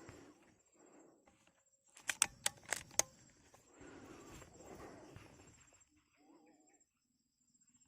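Five sharp clicks in quick succession about two seconds in, followed by a spell of rustling, over a steady high-pitched insect drone; near the end a short pitched call.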